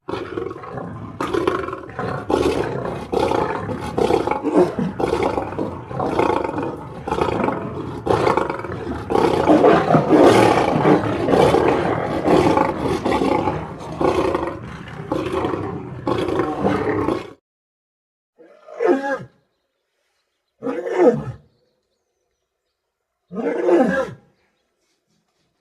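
Lion growling and roaring as character sound effects for a villain lion: a long run of pulsing growls lasting about seventeen seconds, then three short separate roars with falling pitch.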